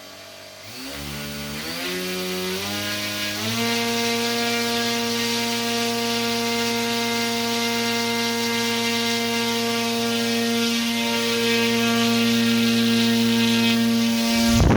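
Brushless motor, run by radio control from a 12-volt car battery, spinning up: its whine climbs in pitch in several steps over the first three or four seconds, then holds a steady high whine.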